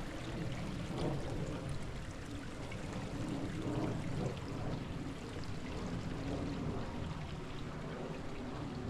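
Creek water flowing: a steady, even rush of moving water.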